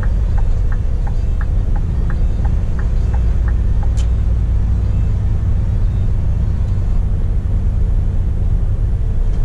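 Scania P420 truck driving, heard from inside the cab: a steady low engine and road rumble. Over it, a regular ticking at about three ticks a second stops a few seconds in, and a single sharp click comes shortly after.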